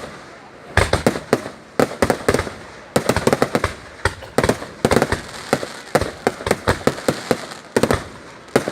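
Fireworks going off in quick clusters of sharp bangs, several a second, with short quieter gaps between the clusters.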